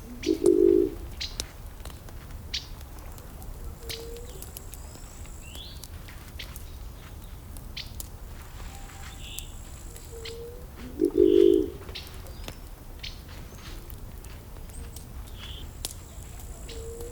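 Burning wood fire crackling, with scattered sharp pops over a low steady rumble. Twice, once near the start and again about eleven seconds in, a low cooing bird call rises above the fire as the loudest sound, and small birds chirp briefly on and off.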